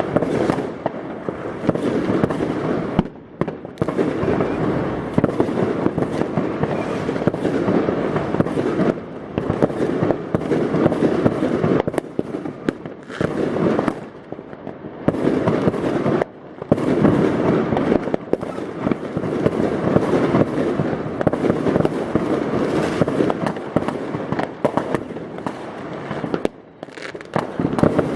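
New Year's Eve fireworks and firecrackers going off across a city neighbourhood: a dense, almost unbroken rattle of bangs and crackling, with a few brief lulls.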